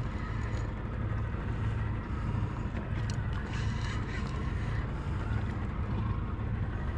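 Boat motor running at idle, a steady low hum, with wind and water noise over it.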